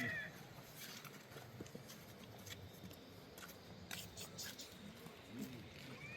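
Faint, irregular footfalls and light clicks on the ground. A rooster's crow trails off at the very start.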